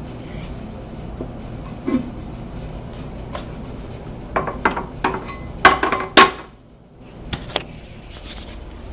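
Porcelain toilet tank lid being handled: a run of sharp ceramic clinks and knocks from about four seconds in, the two loudest near six seconds, then two lighter clicks, over a steady low background hum.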